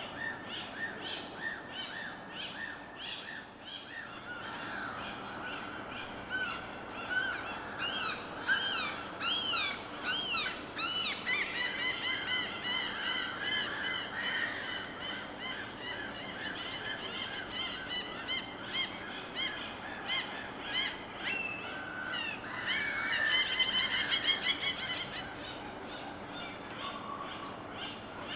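Many birds calling at once, a dense chorus of quick, repeated rising-and-falling calls, over a steady low hiss. There is a louder burst of chattering about three quarters of the way through.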